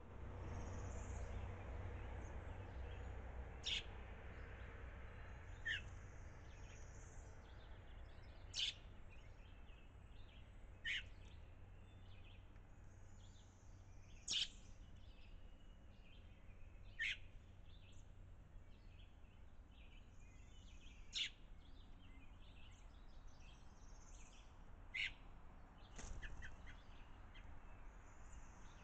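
A bird repeating a single short, sharp chirp about nine times, once every two to four seconds, each note dropping quickly in pitch. Fainter bird chirping sits between the calls, over a low steady background rumble.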